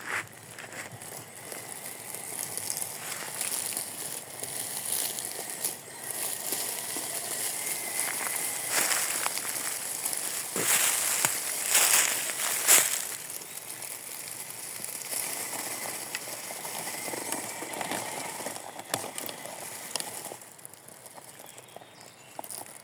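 Remote-control car's tyres crackling and rustling over dry leaves and twigs on the forest floor, with a few sharp cracks about ten to thirteen seconds in.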